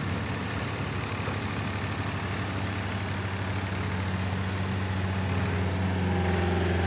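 Semi truck's diesel engine running steadily at a low, even pitch, getting a little louder and fuller after about four seconds.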